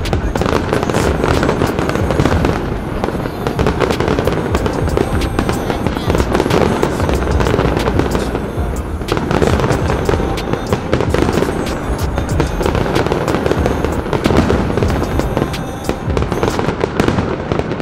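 Aerial fireworks display, shells bursting in quick succession: a dense, unbroken run of bangs and crackles.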